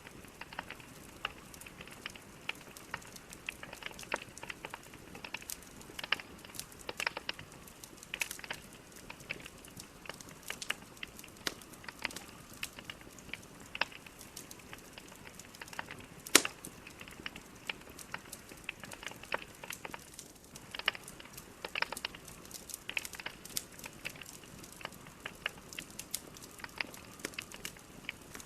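Wood logs burning in a fireplace: steady hiss with frequent irregular crackles and sharp pops, one loud pop about halfway through.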